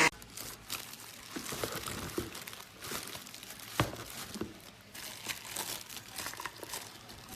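A blender motor cuts off right at the start, followed by handling noises: scattered light clicks and crinkling rustles, with one sharper click a little before the middle.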